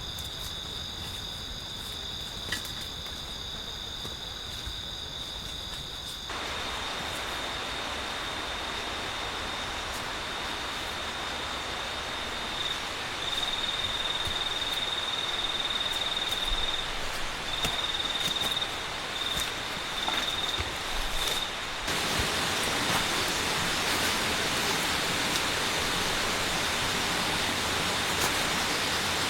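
Forest ambience: insects trilling steadily at a high pitch, breaking into pulses for a while midway, over an even hiss that steps louder about six seconds in and again about twenty-two seconds in.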